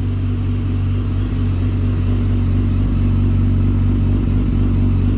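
2009 Yamaha FZ1's inline-four engine idling steadily soon after a cold start.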